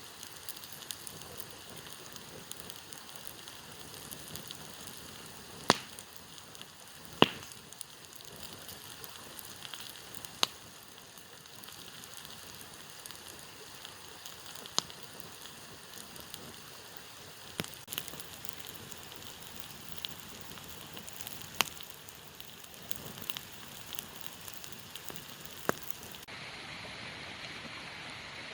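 Campfire burning with a steady hiss and crackle, broken by sharp loud pops from the burning wood about every two to four seconds. Near the end the fire sound gives way to a steadier rushing hiss.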